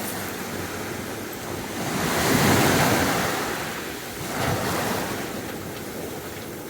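Sea waves breaking and washing up a beach. One wave swells to its loudest about two to three seconds in, and a smaller one follows at about four and a half seconds.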